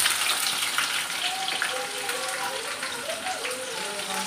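Onion, green chilli and garlic frying in hot mustard oil in a kadai: a steady sizzle with many small crackles of spattering oil.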